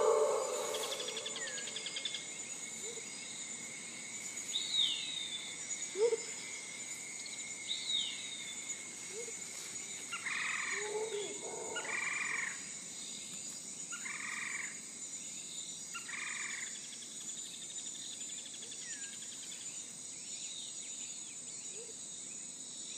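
Faint outdoor animal calls: a few short falling chirps, then a run of four croak-like notes about two seconds apart, over a steady light hiss.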